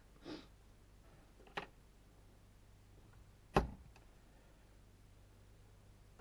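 Small hard parts and tools being handled during bench work on an RC car chassis: a short scrape, a sharp click, then a louder knock about halfway through, over a faint low hum.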